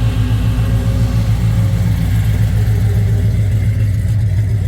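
A vehicle engine running steadily and loudly, with a deep pulsing low rumble.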